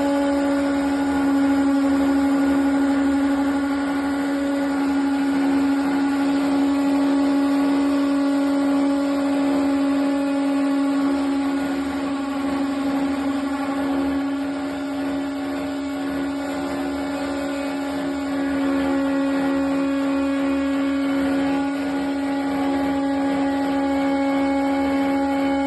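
Navien Ace 20 wall-mounted gas boiler humming: one steady, loud droning tone with a stack of higher overtones, unbroken throughout. The hum is put down to low system pressure or too little coolant flow through the heat exchanger.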